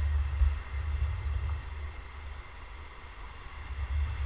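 Trenord double-deck passenger train rolling past on the track beside the platform, a steady rolling noise, with wind buffeting the microphone in irregular low rumbling gusts, strongest at the start and again near the end.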